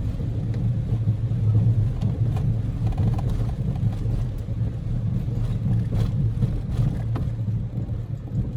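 In-cabin running noise of a Daihatsu Move L150S with its EF-VE 660 cc three-cylinder: a steady low drone of engine and tyres on the road, with faint ticks now and then.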